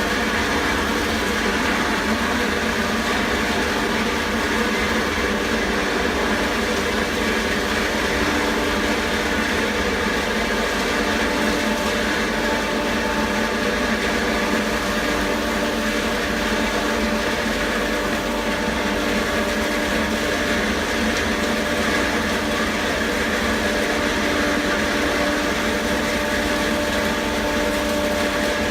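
Pillow-stuffing blower machine running steadily: a constant motor drone with a fixed hum over the rush of air, like a vacuum cleaner.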